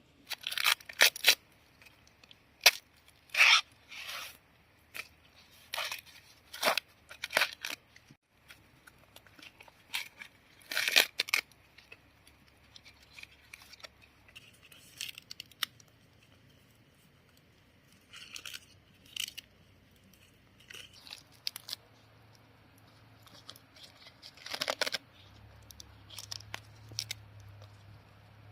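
Short, irregular tearing and rustling sounds, a quick run of rips in the first half and a few scattered ones later.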